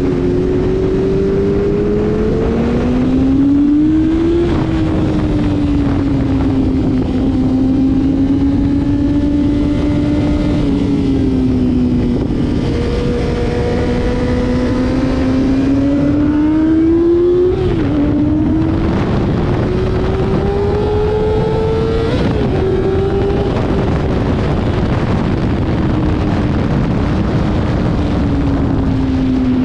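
Motorcycle engine at speed on a racetrack, pulling up through the revs, with sudden drops in pitch about 4, 17 and 22 seconds in as it shifts up a gear, then easing off toward the end. A steady rush of wind noise runs underneath.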